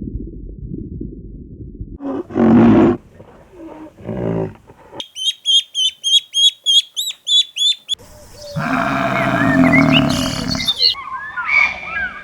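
A string of different farm animal calls cut together: a low rumbling stretch, a loud call about two seconds in and a shorter one near four seconds, then about three seconds of rapid, evenly repeated high chirps. A loud stretch of several animals calling at once follows, with bird chirps near the end.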